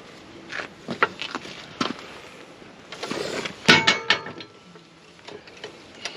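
Scattered knocks and clanks of a wooden block and a jack being set in place under a tractor, with a loud metallic clank that rings briefly a little past halfway.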